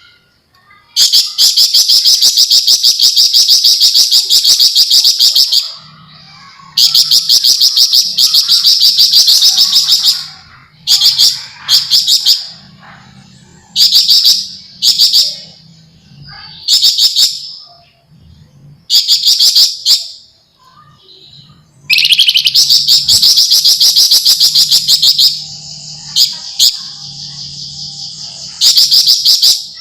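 Javan fulvetta singing dense, rapid rattling trills ('ngebren nyerecet'). There are three long runs of a few seconds each, with short trill bursts between them.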